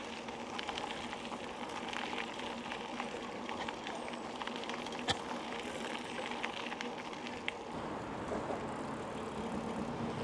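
Bicycle riding noise: a steady rolling hum from tyres and drivetrain with scattered small ticks and rattles, and one sharp click about five seconds in.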